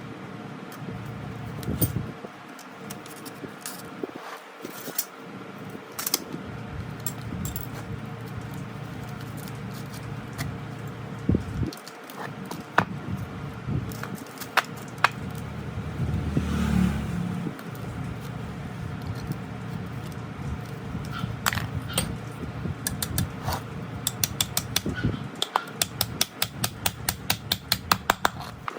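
Small metal parts and tools clinking and tapping, with scattered sharp clicks, a dull thump about halfway through, and a fast, even run of clicks near the end.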